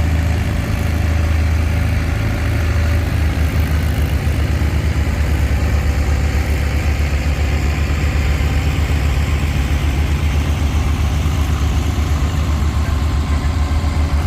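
Allis-Chalmers WC tractor's four-cylinder engine running hard under load as it drags a weight-transfer sled down the pulling track, its firing a fast, even pulse.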